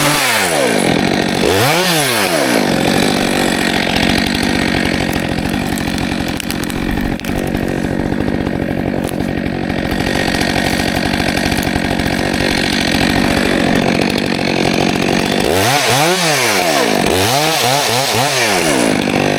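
Stihl 462 C two-stroke chainsaw working through a log. Its engine revs up and back down about two seconds in, holds a steady high rev through the long cut in the middle, then revs up and down in two or three quick blips near the end.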